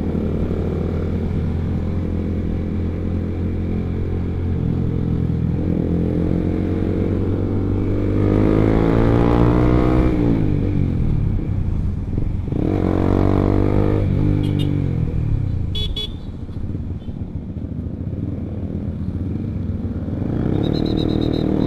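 Honda CBR150R single-cylinder engine breathing through an R9 aftermarket exhaust while riding. It runs steadily, then revs up about eight seconds in and again about twelve seconds in, each time rising in pitch and falling back as the throttle closes.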